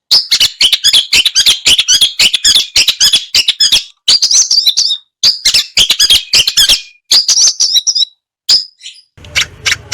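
Long-tailed shrike (cendet) singing a fast run of sharp, harsh chirps, broken by a few short pauses. The song stops about nine seconds in.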